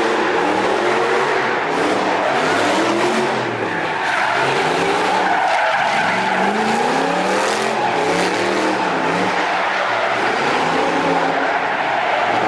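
Straight-piped V8 of a BMW E46 drift car revving up and down repeatedly through a drift, its pitch rising and falling many times, with tyres skidding and hissing throughout.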